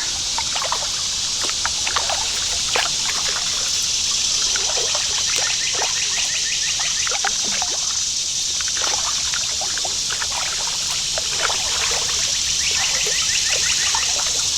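Creek water rushing and trickling around a kayak pushing upstream against a strong current, with irregular small splashes and drips.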